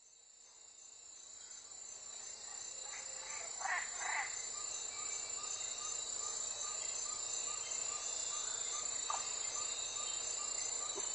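Evening chorus of crickets and other insects: a steady high-pitched chirring with a regular pulsing chirp beneath it. It fades in over the first couple of seconds, and a few short calls stand out about four seconds in.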